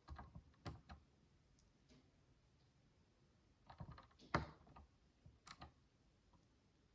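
Micro building bricks, tiny plastic pieces, clicking and tapping faintly as they are handled and pressed together. There are a few quick clicks near the start, a louder cluster about four seconds in, and one more click shortly after.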